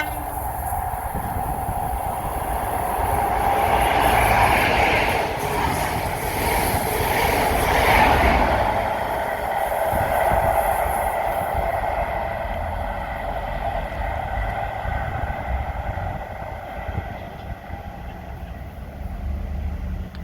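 A train passing close by on the rails, building to its loudest about four to eight seconds in and then slowly dying away.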